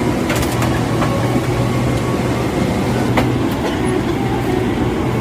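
Steady low hum and rumble of an airliner cabin at the gate, its ventilation running, with a few scattered sharp clicks and knocks.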